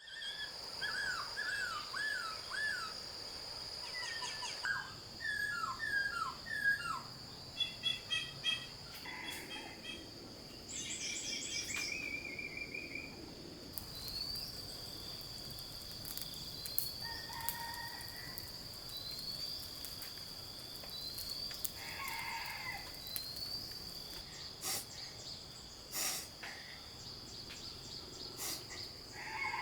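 Birds chirping and calling, several with quick runs of short falling notes, over a steady high-pitched insect drone; a few sharp clicks near the end.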